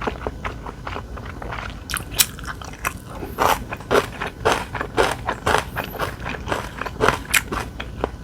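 Close-miked eating: a person chewing food, with a run of many short clicks that turn into louder, sharper bites about twice a second from about three seconds in.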